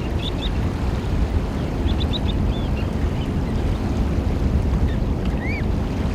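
Eurasian oystercatchers giving short, high piping calls: a pair near the start, a quick run of four about two seconds in, and one rising-and-falling call near the end, over a steady low rumble of surf.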